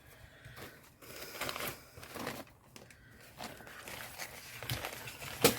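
Thin paper rustling and crinkling as it is handled and smoothed down during decoupaging, with a sharp tap near the end.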